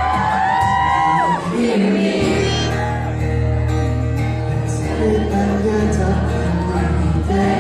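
Live band playing the slow instrumental opening of a song, sustained chords over a steady deep bass that comes in about two seconds in. Fans' high screams carry over the first second or so.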